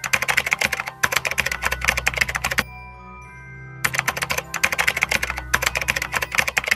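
Rapid keyboard typing sound effect, a fast run of clicks that stops for about a second midway and then starts again, over soft background music.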